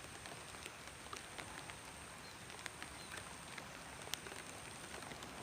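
Light rain falling, with scattered drops ticking sharply on nearby surfaces. A steady high-pitched tone runs beneath.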